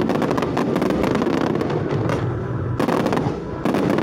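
Fireworks going off: a dense run of rapid crackling pops and bangs, with a short lull about three and a half seconds in before the crackle starts again.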